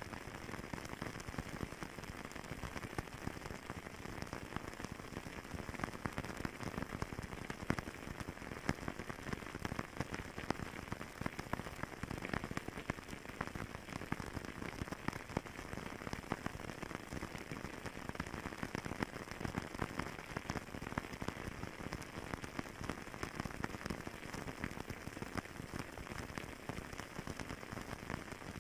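Wood fire burning steadily, with dense irregular crackles and pops over a soft hiss.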